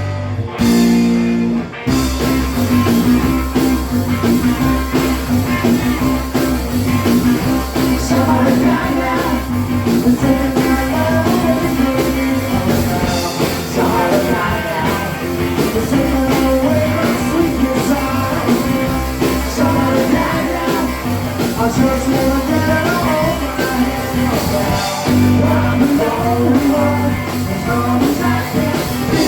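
A rock and roll band playing, with guitar, a steady bass line and singing. After a brief break, the full band comes in about two seconds in.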